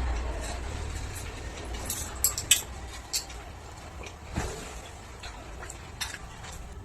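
Light clinks and taps of dishes and food being handled during a meal: a cluster about two seconds in, then a few single ones.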